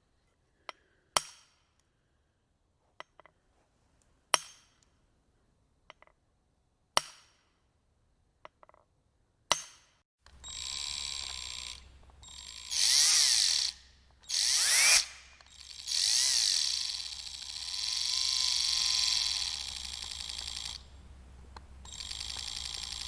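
A maul striking a steel wedge: four loud, ringing blows about two to three seconds apart, each after a lighter tap. About ten seconds in, a household electric drill starts, running in spurts that speed up and slow down, then pauses briefly and runs steadily.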